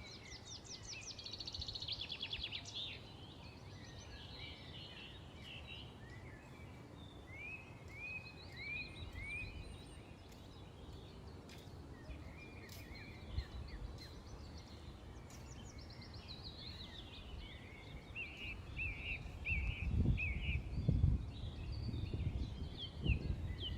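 Several small birds chirping, with fast trills near the start and again past the middle, and runs of short rising calls in between. A low rumble lies underneath and swells into louder surges near the end.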